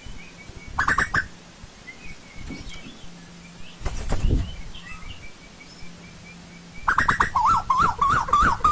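Asian koel calling. Short loud bursts come about a second in and again around four seconds, then from about seven seconds a loud, fast run of wavering notes repeats to the end, over a faint steady low hum.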